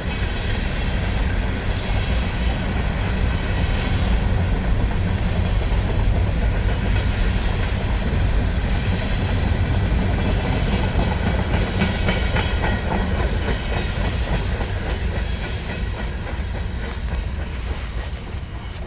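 CSX freight train cars rolling past, wheels clicking over the rail joints with a steady heavy rumble that eases off a little near the end.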